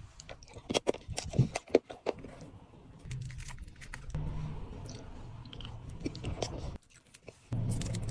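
Close-miked eating of dessert: sharp crunchy bites in the first two seconds, then steadier chewing that stops abruptly near the end and starts again.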